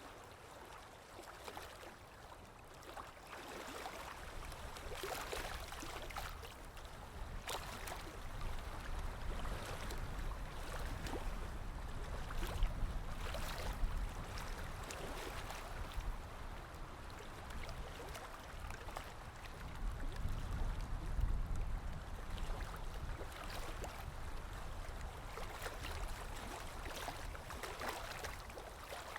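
Running water gurgling and splashing continuously, with many small splashes and a low rumble that swells twice and then eases.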